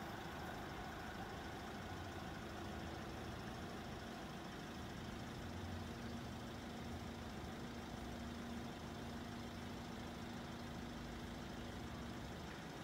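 Faint, steady rumble of an electric multiple unit running away into the distance, with a steady low hum that sets in a few seconds in and stops near the end.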